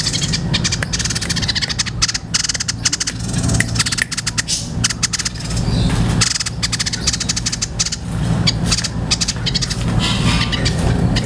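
White-breasted babbler (tepus dada putih) singing a long, high, rattling chatter of rapid clicking notes, in several runs with short breaks, over a steady low hum.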